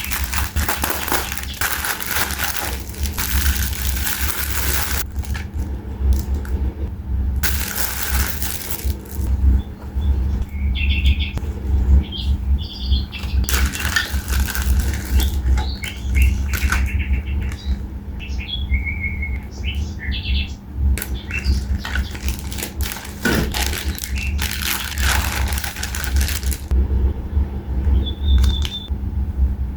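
Small birds chirping in short, repeated high calls through the middle and again near the end, over a steady low rumble and several loud gusts of rushing noise.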